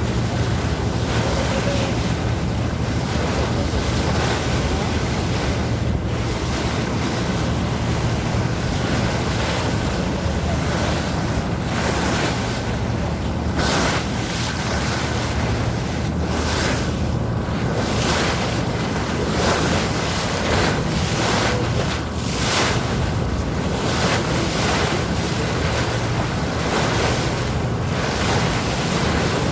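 Sea waves washing and splashing around a motor boat under way, with the boat's engine making a steady low hum beneath and wind buffeting the microphone.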